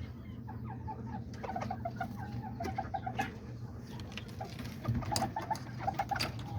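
Bantam chickens clucking in several short runs of quick repeated notes, with scattered light clicks and taps.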